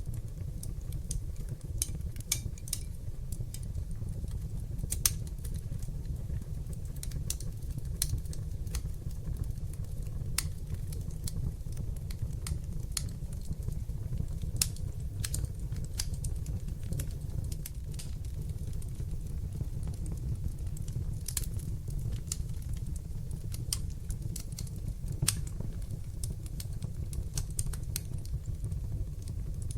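Wood fire burning in a fireplace: a steady low noise of the flames with frequent, irregular sharp crackles and pops of burning wood.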